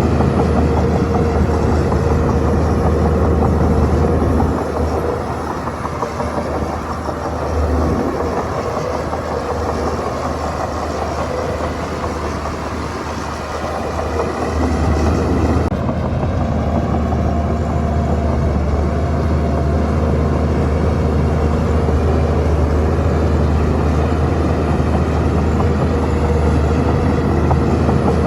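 Shantui bulldozer's diesel engine running steadily with a low drone. It drops quieter for about ten seconds from around four seconds in, then comes back up to full level.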